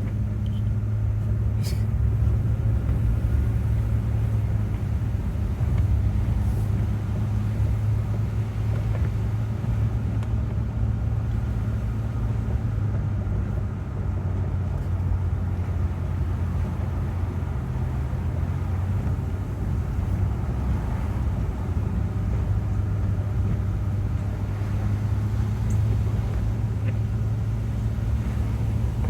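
Car's road noise heard from inside the cabin while driving: a steady low drone of engine and tyres on the road.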